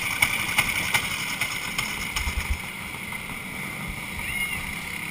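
Steady, muffled rushing noise from a kart race heard through a helmet-mounted GoPro housing, with scattered clicks and knocks in the first second or so and a few low thumps a little after two seconds in.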